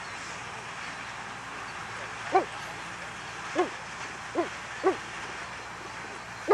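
A dog barking: five short, deep barks spread over a few seconds, the last near the end.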